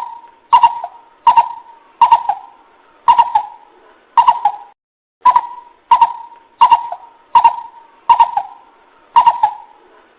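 Coucal (bubut) call from a lure recording: a steady series of short, low notes repeated a little more than once a second, each starting sharply, with a brief pause about halfway through.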